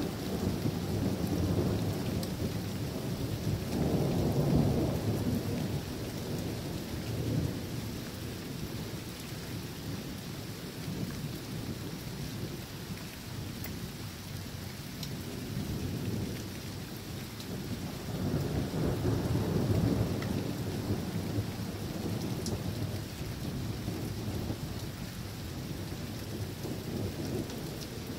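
Steady rain falling during a thunderstorm, with rolling thunder that swells twice, about four seconds in and again, more strongly, around twenty seconds in.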